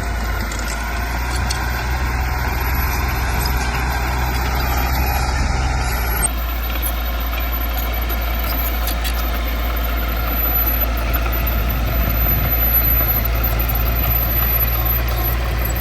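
Heavy diesel earthmoving machinery running steadily at a low, even engine note. The sound changes abruptly about six seconds in.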